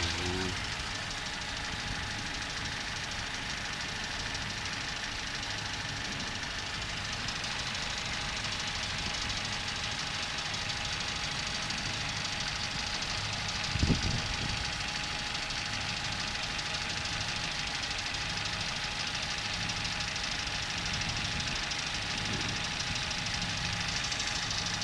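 Nissan GA15-DE 1.5-litre four-cylinder engine idling steadily, with one short thump about halfway through.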